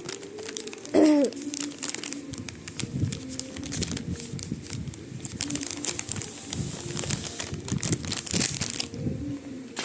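Irregular rustling and crinkling, like material being handled and crumpled, with a short loud pitched vocal squeal about a second in.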